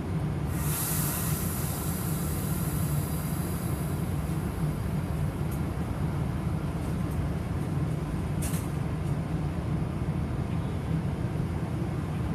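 Stopped VRE diesel commuter train standing at the platform: a steady low rumble throughout. Air hisses out, likely from the brakes, starting about half a second in and fading over a couple of seconds. A second short, sharp hiss of air comes a little after eight seconds.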